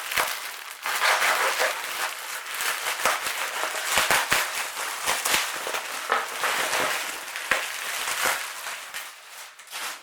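Packing material in a delivery box, styrofoam peanuts and wrapping, rustling, crunching and crinkling as it is handled and items are lifted out; it dies away near the end.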